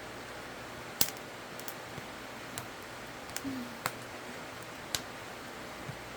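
Wood campfire crackling: scattered sharp pops, the loudest about a second in, over a steady soft hiss of the burning fire.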